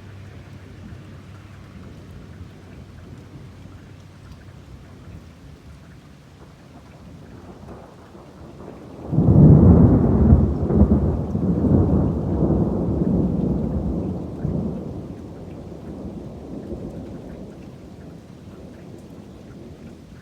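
Steady rain falling, broken about nine seconds in by a sudden loud thunderclap that rumbles for several seconds and then fades back under the rain.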